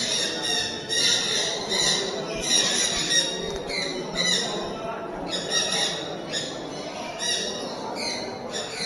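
Caged show birds squawking, a run of short, harsh, high-pitched calls following one another a few times a second.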